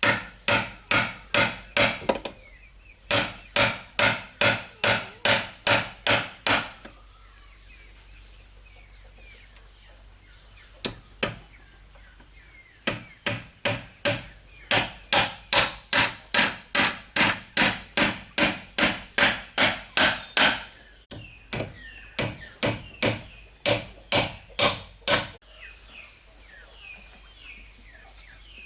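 A hand tool striking wood in quick, even runs of blows, about two or three a second, with pauses between runs and fainter blows near the end.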